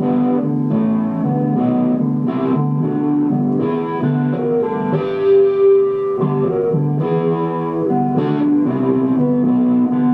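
Guitar music: a plucked guitar playing a continuous run of changing notes.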